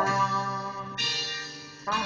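Trumpets playing long held notes. One note fades away just before the next starts near the end.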